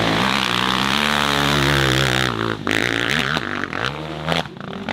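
Dirt bike engine revving hard at high, steady revs, then the throttle is cut a little past halfway and followed by a few short, sharp blips of the throttle.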